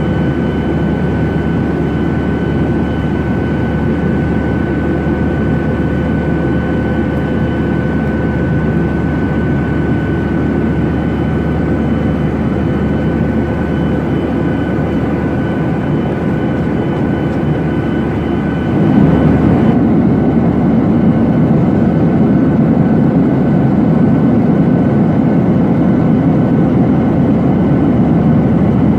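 Jet engine and airflow noise heard inside the cabin of a Boeing 737-800 with CFM56-7B engines: a steady rush carrying a thin high whine. About two-thirds of the way through it steps up louder and the whine fades.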